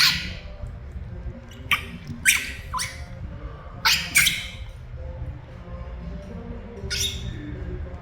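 Pet monkey giving about seven short, loud, high-pitched calls at irregular intervals, several dropping in pitch, calling for its mother.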